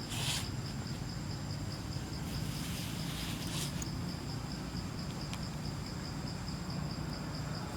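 An insect chirping in a steady, rapid, even high-pitched pulse, over a low rumble, with a couple of brief rustles.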